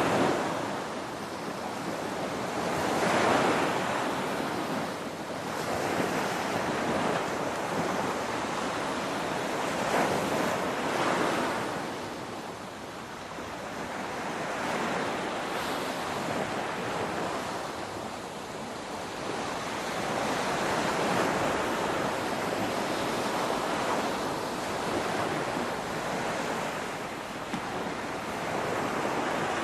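Ocean waves breaking on a shore, a continuous surf wash that swells and eases every few seconds.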